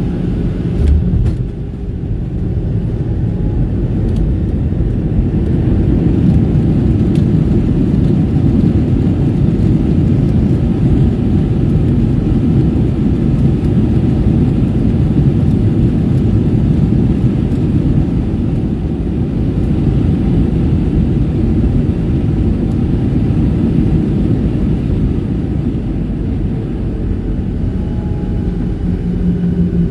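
Airliner cabin noise during landing: a loud, low, steady rumble of the jet engines and the aircraft rolling on the runway, with a brief thump about a second in.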